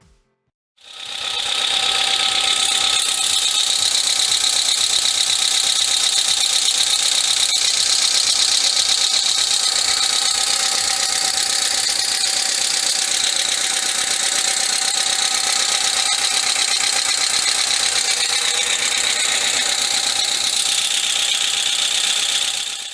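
Hyundai Accent car engine idling steadily, heard close up; it comes in about a second in. Whether its hydraulic lifters are tapping or have gone quiet after the oil change cannot be told.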